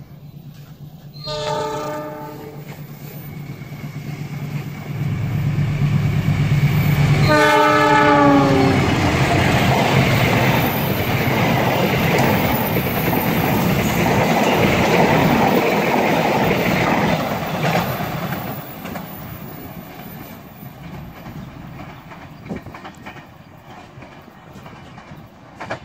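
Diesel locomotive of a passenger train sounding its horn twice as it approaches: a short blast, then a longer one about six seconds later that dips in pitch as the locomotive passes. The coaches then run past with a loud rush of wheels on rail, which fades over the last several seconds.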